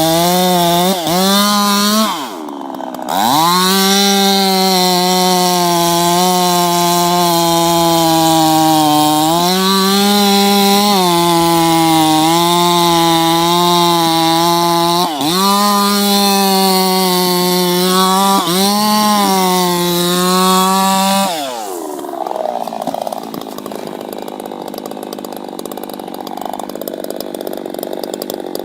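Chainsaw running at full throttle in a cut, its pitch sagging and recovering several times under load. About 21 seconds in it drops off and a quieter, rougher sound follows.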